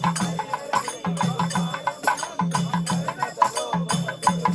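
Devotional bhajan music carried by rhythmic hand percussion: sharp clicking strokes about four a second over low drum beats that come in short groups of three or four.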